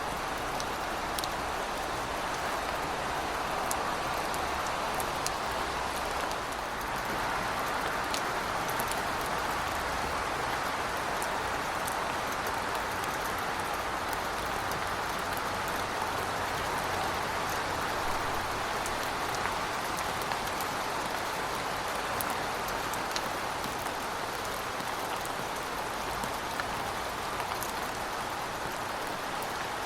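Heavy rain falling steadily: a dense, even hiss with scattered sharp drop ticks on top.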